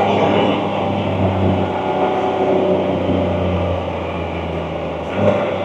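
Can-Am Spyder three-wheeled motorcycle's engine running steadily under way, with road and wind noise. A short thump comes near the end.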